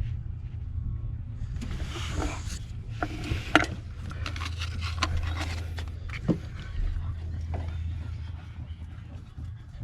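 Hands working at an O2 sensor's plastic wiring connector in a cramped engine bay: scattered sharp clicks and short scrapes and rustles, over a steady low hum.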